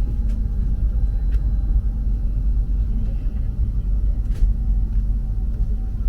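Steady low rumble of a Renfe Avant high-speed train running, as heard inside the passenger car, with a few faint clicks.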